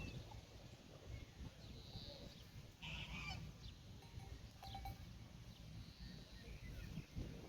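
Pastoral farmyard ambience: a low steady rumble with small birds chirping and one short animal call about three seconds in.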